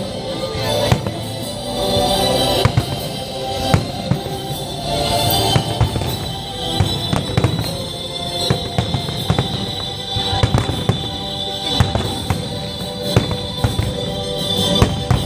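Aerial firework shells bursting in quick, irregular succession, dozens of sharp bangs overlapping, over the display's soundtrack music.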